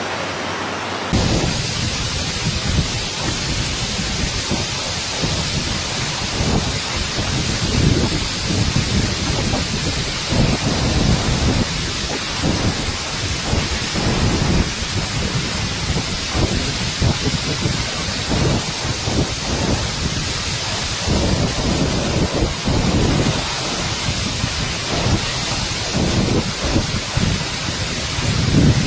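Torrential rain pouring steadily, with irregular low rumbles running under it. The sound changes abruptly about a second in, as a new recording begins.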